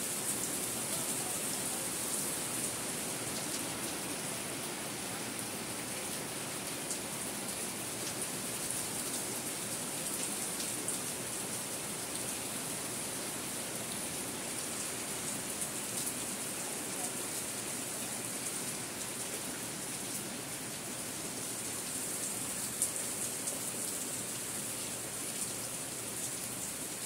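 Steady rain falling on roofs and a muddy alley, with water streaming off the eaves and scattered small ticks of drops.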